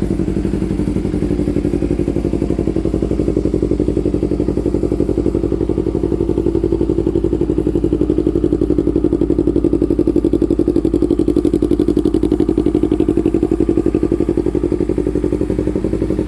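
Yamaha R25 parallel-twin engine idling steadily through an aftermarket full-system exhaust, with an even, rapid exhaust pulse and no revving.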